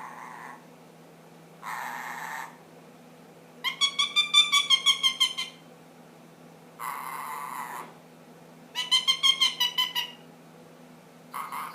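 Indian ringneck parakeet making odd noises: short hoarse, raspy calls three times, alternating with two quick runs of rapid pitched chattering notes at about six a second.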